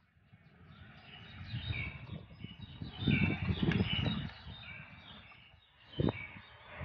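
Small birds chirping in quick short notes over a low rumble, with one sharp thump about six seconds in.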